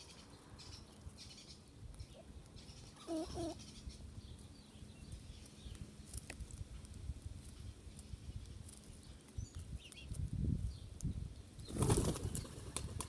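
Wild birds at a feeding spot: scattered small clicks and knocks, a short low call about three seconds in, and a burst of wing flaps near the end.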